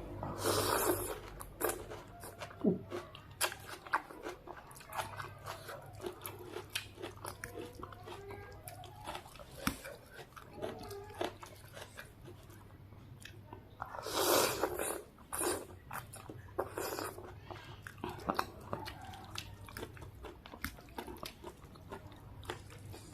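Close-miked chewing and wet mouth sounds of someone eating noodles with chopped chillies, many small clicks throughout, with two longer noisy bursts about half a second in and about fourteen seconds in.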